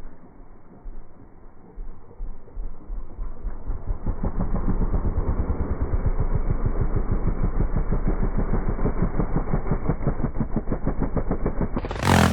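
Dirt bike engine running. It is faint at first, grows louder about four seconds in, then holds steady with rapid, even firing pulses. A brief, louder burst of sound comes near the end.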